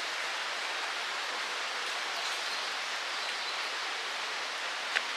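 Steady outdoor ambient hiss, even and unbroken, with one sharp click near the end.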